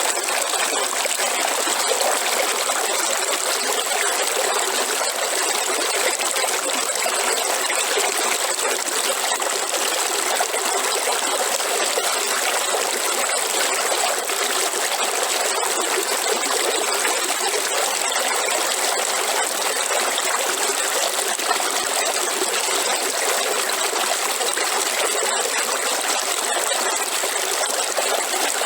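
River water flowing and splashing over rocks in a steady, unbroken rush that carries plenty of high hiss and little low rumble.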